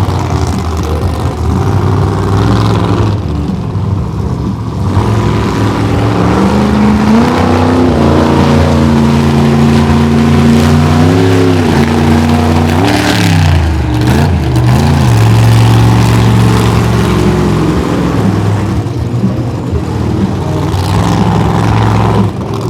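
Monster truck engine revving hard under throttle. The revs climb, hold high, then drop and surge again a couple of times midway through.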